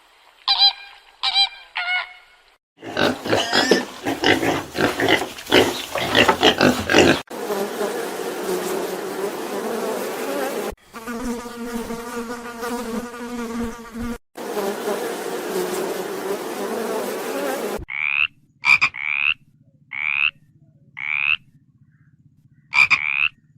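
A run of different animal calls: short chirping calls, then a dense stretch of calls, a buzzing stretch in the middle, and near the end short croak-like calls repeated about once a second.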